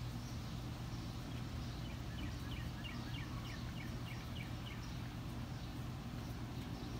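Bird chirping a quick run of about ten short high notes, about four a second, for nearly three seconds in the middle, over a steady low hum.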